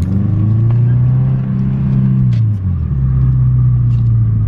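Subaru Impreza 2.5 RS flat-four engine with the muffler deleted, running loud with a low, steady exhaust note. A little past halfway the pitch dips briefly, then settles steady again.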